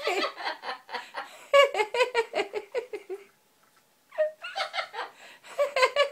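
Amazon parrot laughing, a fast run of pitched ha-ha calls in two bouts with a short pause between them.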